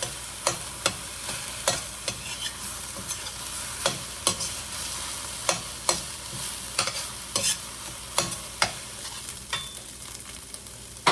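Chopped onions sizzling steadily in hot oil in a wok as they fry toward a light brown. They are being stirred, so the utensil knocks and scrapes against the wok in sharp, irregular clicks about twice a second.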